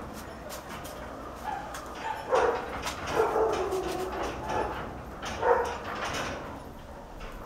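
A dog barking and whining: a short bark a little over two seconds in, a longer falling whine after it, and another bark near the end. Underneath is a steady light rattling, consistent with doors and fittings shaking in the earthquake.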